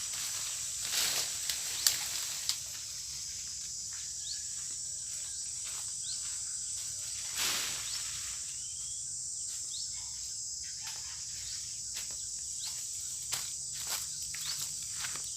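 Steady, high-pitched insect chorus in an orchard, with scattered rustles and sharp clicks of movement through dry leaves and branches, the loudest about one to two and a half seconds in and again about seven and a half seconds in.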